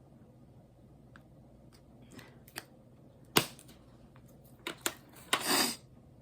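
Diamond painting supplies being handled: a few sharp small clicks and taps, the loudest about three and a half seconds in, then a brief rattle near the end.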